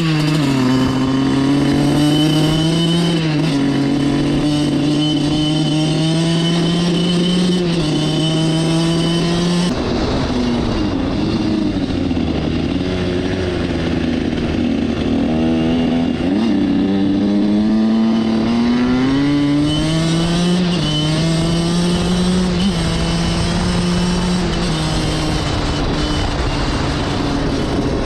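Suzuki RM85 two-stroke dirt bike engine being ridden, its note rising and falling with throttle and gear changes, easing off about ten seconds in before picking up again. The bike is acting up, which the rider puts down to flooding it with too much gas from hard throttle while trying wheelies.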